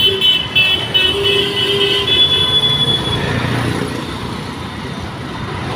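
Road traffic with a vehicle horn sounding for about the first three seconds, then fading into the noisy rumble of passing vehicles.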